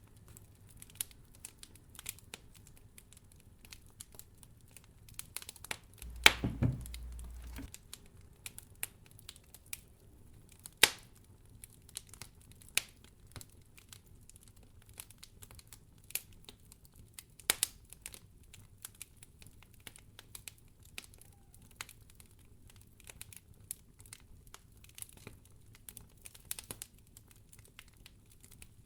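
Wood fire crackling in a fireplace: irregular small snaps and pops over a low, steady hum. About six seconds in there is a louder burst of pops with a short low thud. Two more sharp single pops come around eleven and seventeen seconds in.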